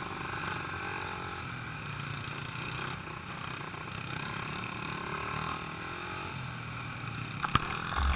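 Small pit bike engines running round a yard, the pitch rising and falling as the throttle is opened and eased. A sharp click near the end.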